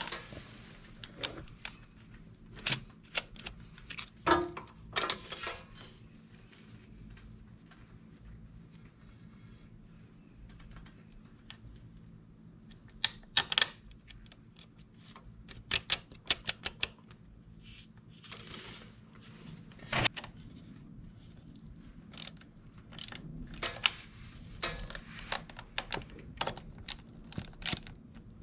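Hand tools clicking and clinking against metal at an irregular pace, with a few louder clanks, as the battery is refitted on a Scag walk-behind mower.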